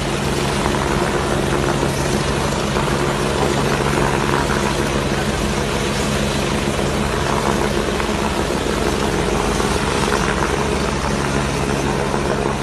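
An engine running steadily at an even speed, a constant droning hum over a dense wash of noise.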